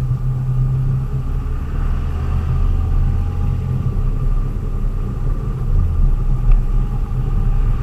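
A delivery vehicle on the move: a steady low engine rumble with road noise.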